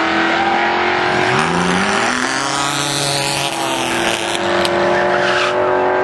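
Cammed LS6 V8 running hard down a drag strip, several engine notes overlapping, with the pitch sliding and stepping up again about two seconds in.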